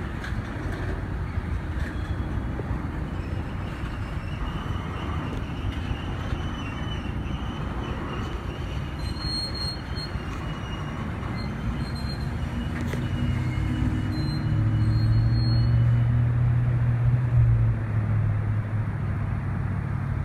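Train rolling past, a steady rumble of wheels on rail with thin, high wheel squeal through the middle. A deeper drone grows louder about two-thirds of the way in, then eases off near the end.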